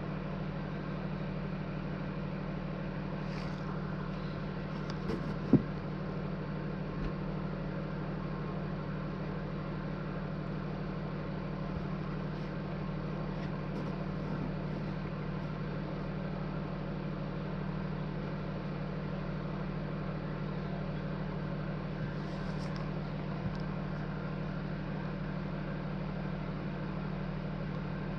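Vehicle engine idling steadily with an even low hum, and a single sharp click about five and a half seconds in.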